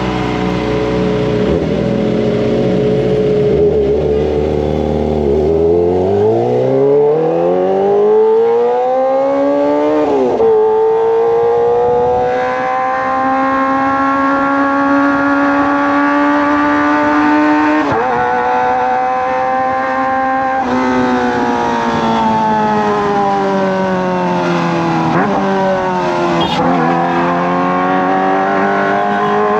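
Kawasaki ZX-25R's inline-four engine through a Racefit Slash aftermarket exhaust, while riding. It runs steadily at first, revs up with a sharp drop in pitch at a gearshift about ten seconds in, holds a steady note, eases off from about twenty seconds in, and revs up again near the end.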